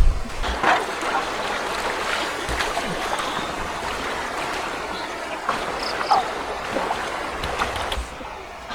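Running river water: a steady rushing noise with a few small clicks.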